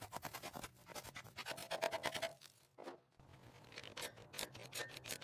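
Scraping rust off a badly corroded steel panel: a quick run of short, scratchy strokes as the loose rust comes away, heaviest about two seconds in and again near the end.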